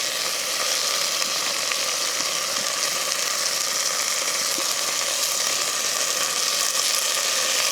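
Garlic and onion frying in hot oil in a pan, a steady sizzle.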